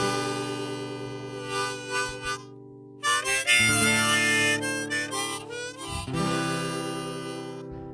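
Live folk band playing an instrumental intro: chords that ring out and fade, over held bowed notes, with a brief lull about two and a half seconds in.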